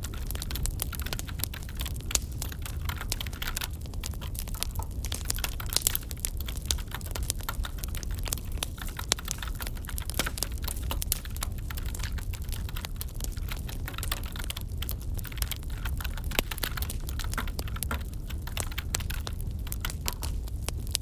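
Wood fire crackling over a low steady rumble, mixed with computer keyboard typing: many quick, irregular clicks.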